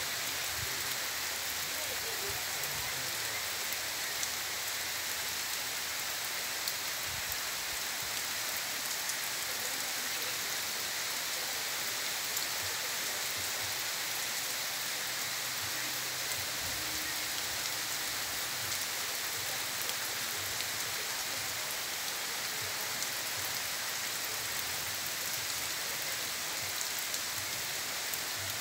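Heavy rain falling steadily, an even hiss that holds without let-up.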